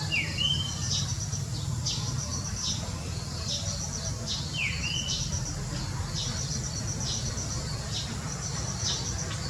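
Birds chirping outdoors over a repeated high, pulsing trill. Two louder, short swooping calls stand out, one near the start and one about halfway through. A steady low rumble runs underneath.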